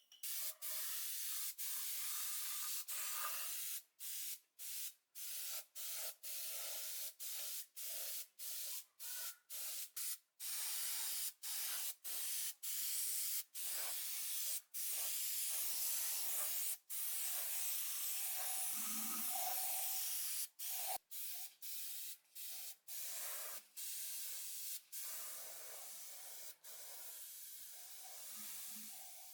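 Hissing spray, sprayed in many short bursts with brief breaks between them, then held for a few seconds at a time, and quieter near the end.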